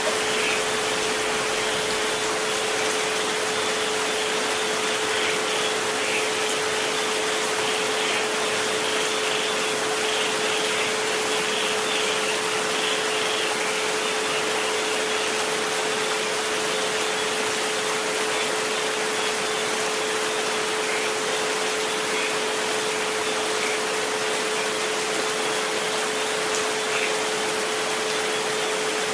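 Steady rain hiss with a pure sustained tone at about 432 Hz laid over it, and a fainter tone near 528 Hz.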